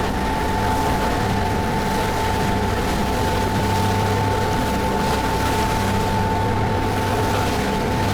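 Ferry boat under way: its engines run steadily with a low hum and a thin, steady high whine over a continuous rushing noise.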